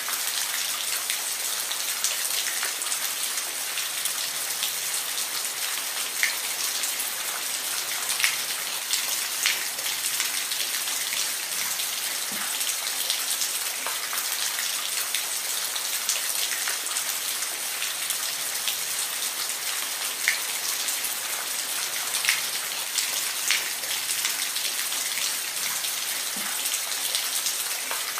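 Steady rain falling, a continuous hiss with individual drops ticking sharply now and then.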